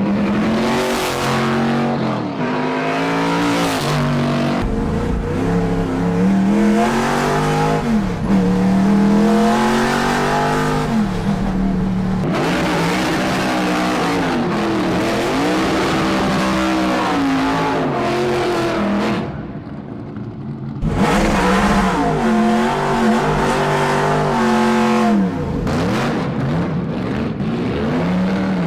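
V8 engine of a 1970 Chevrolet Camaro Chaparral race car, revving hard and repeatedly: the pitch climbs through each rev and falls away between them, with a brief quieter lull about two-thirds of the way through.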